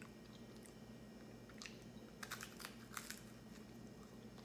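Faint chewing of pizza, a cluster of small crunchy clicks about two to three seconds in, over a low steady room hum.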